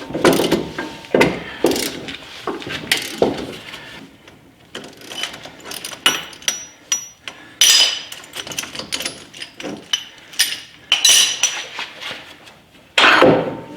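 Hand tools working a bearing puller on a car's rear wheel hub: irregular metallic clicks, ratcheting and clanks, some ringing briefly. The driveshaft splines are stuck in the wheel bearing and are being forced out.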